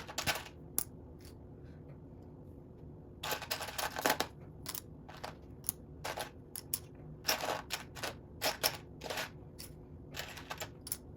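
Small plastic Lego bricks clicking and clattering as they are sifted through by hand in a search for a missing piece, in irregular runs of sharp clicks with a denser rattle a few seconds in.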